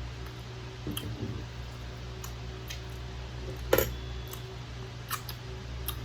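Close-miked eating sounds of someone chewing chicken wings: scattered wet clicks and lip smacks, the loudest about three and three-quarter seconds in, over a steady low hum.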